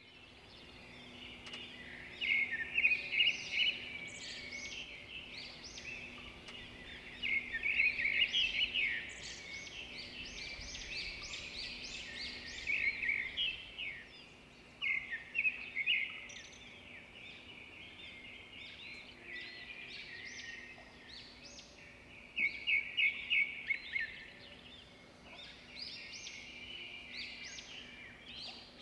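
Birds chirping, in bursts of rapid repeated high notes every few seconds, over a faint steady hum.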